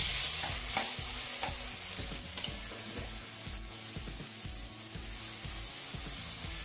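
Sliced potatoes sizzling in hot sunflower oil in a frying pan, the hiss starting as the first slices go in. Light clicks of a spatula come repeatedly as more slices are laid in one by one.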